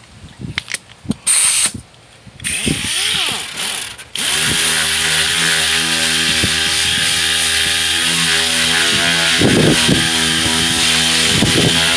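Dual-action (DA) sander with 80-grit paper starting about four seconds in and then running steadily, sanding the bare steel of a repaired tailgate smooth. Before it starts there are a few clicks and knocks of the tool being handled.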